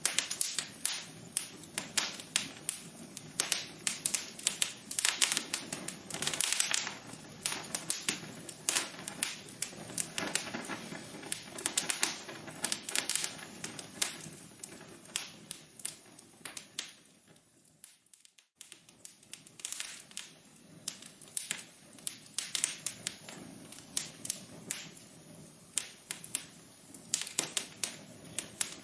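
Wood fire crackling, with dense irregular snaps and pops over a low hiss. The crackling dies away almost completely for a moment about two-thirds of the way through, then picks up again.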